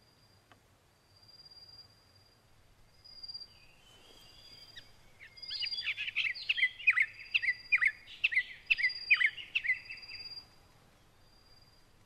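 A songbird singing a loud, rapid run of sharp chirping notes for about five seconds, starting roughly halfway through. Behind it, a faint thin high tone repeats, each lasting under a second.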